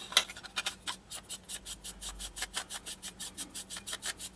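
Rifle handguard being screwed onto its threaded adapter collar: a quick, even run of rasping clicks, about six or seven a second.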